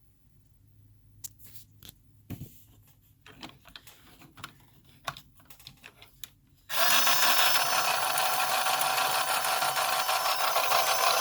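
A few scattered light clicks and knocks, then about two-thirds of the way in a battery-powered toy train set starts up suddenly and runs with a loud, steady mechanical whir.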